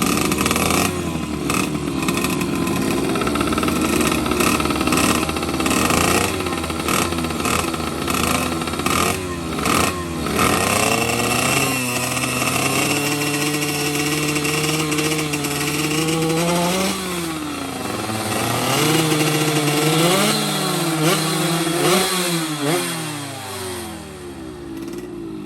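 Two-stroke underbone racing motorcycles revving hard and accelerating, the engine pitch climbing, dropping back at gear changes and climbing again, then falling away near the end.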